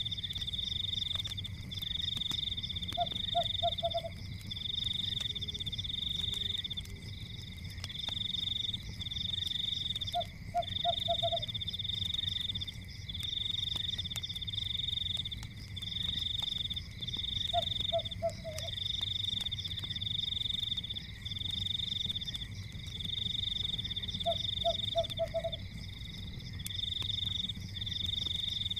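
Forest night ambience: a steady high trilling chorus of frogs, broken into pulses of about a second. Four quick low croaks repeat about every seven seconds, over a low rumble with faint fireplace crackle clicks.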